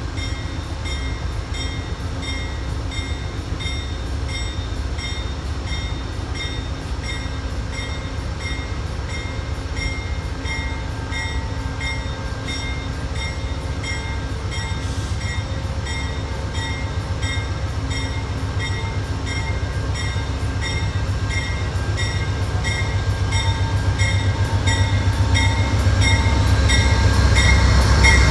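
Amtrak GE P42DC diesel locomotive approaching along a station platform with its bell ringing in steady repeated strokes. Its engine and wheels make a low rumble that grows louder as it draws close near the end.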